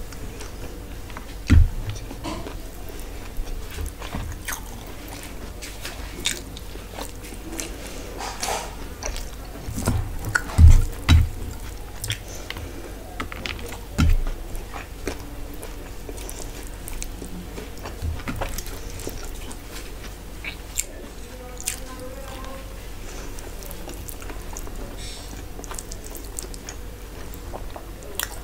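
Close-miked chewing, biting and wet mouth sounds of a person eating rice and curry by hand, with scattered small crunches and clicks. A few low thumps stand out, about two seconds in, around ten to eleven seconds in, and near fourteen seconds.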